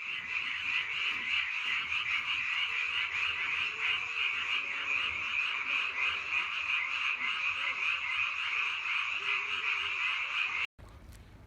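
A chorus of frogs calling, a dense, fast-pulsing trill that cuts off suddenly near the end.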